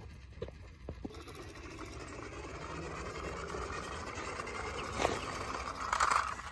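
A small motor whirring steadily, slowly growing a little louder, with a few clicks and a louder rise near the end.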